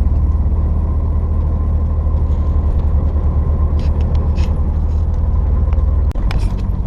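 Diesel semi-truck running at road speed, heard from inside the cab as a steady low engine and road drone. A few faint clicks come through, and the low drone drops off suddenly about six seconds in.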